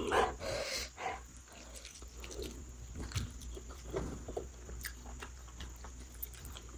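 A person eating close to the microphone: soft irregular chewing and short wet mouth clicks.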